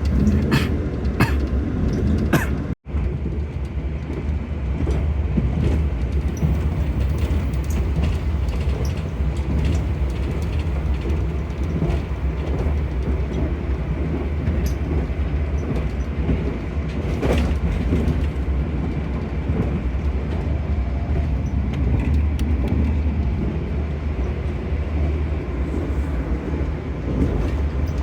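KA Anggrek passenger train running: a steady low rumble with a few sharp clicks in the first few seconds. The sound breaks off for an instant about three seconds in.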